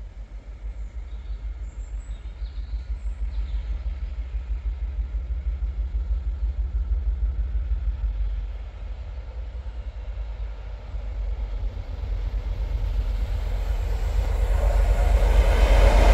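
Diesel train approaching: a low throbbing rumble that grows steadily louder, with a rising rush of higher wheel-on-rail noise near the end.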